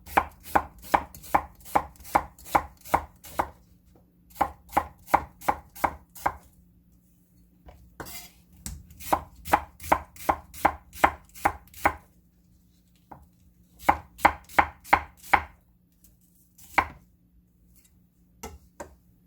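Kitchen knife slicing a small onion on a cutting board, in quick runs of strokes about three a second with short pauses between runs, and a few single cuts near the end.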